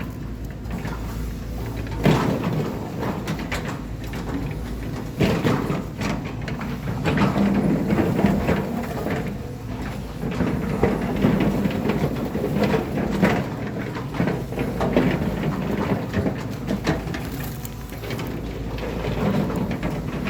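Heavy earth-moving machinery working: a steady low engine rumble with irregular clanks and knocks throughout, the first sharp one about two seconds in.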